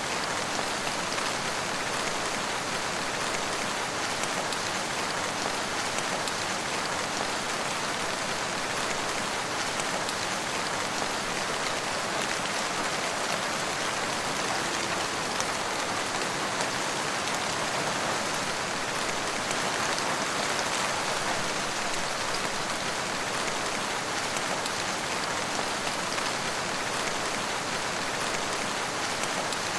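Steady rain falling: a constant, even hiss of many drops, with fine scattered drop ticks and no change in intensity.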